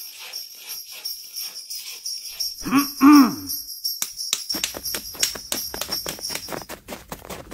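Jingle bells jingling, with quick shakes that come faster in the second half. About three seconds in, a short pitched call rises and falls twice.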